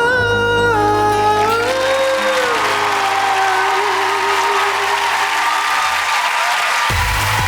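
A male singer holds one long final note over the backing band while the audience breaks into applause and cheering.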